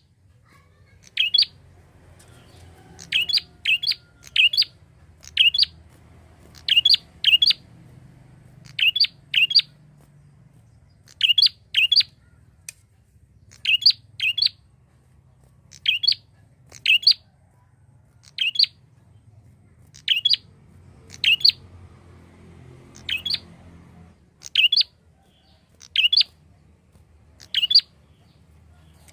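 A prinia (prenjak) calling: a steady series of short, sharp, high chirps, singly or in quick pairs, about one a second, over a faint low hum.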